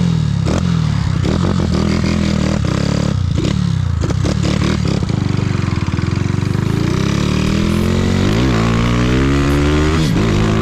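Honda Titan 150 motorcycle with an enlarged ("motorzão") single-cylinder four-stroke engine, riding under throttle. The engine note rises and drops several times through gear changes, then climbs steadily as it accelerates in the second half.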